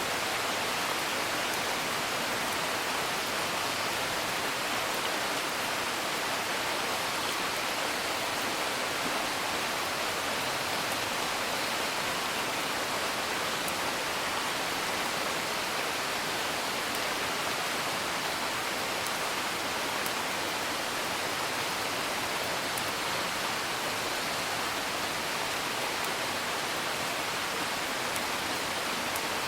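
Steady, even rain, with a few faint crackles of a wood fire here and there.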